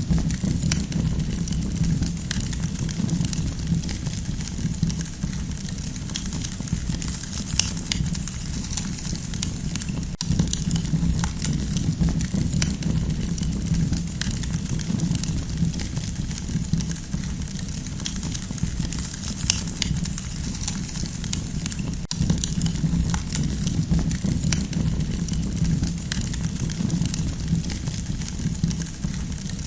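Campfire burning: a steady low rumble with scattered sharp crackles from the burning wood.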